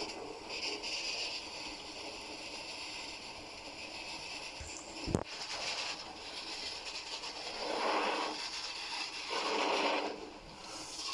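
Freight train of flatcars rolling slowly past: a steady hiss of wheels on rail, with one sharp click about five seconds in and two swells of scraping noise near the end.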